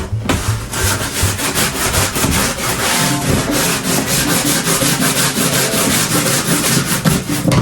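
Brisk back-and-forth scrubbing with a hand scrub brush, a fast, even run of strokes at several a second.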